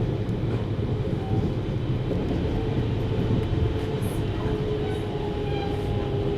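JR Hokkaido 733 series electric train running: a steady rumble of wheels on the rails, with a faint motor whine coming in about halfway through.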